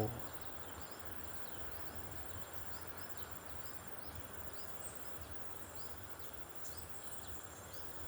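A steady high insect trill, cricket- or cicada-like, with a run of short, high, downward-sliding chirps repeating about twice a second.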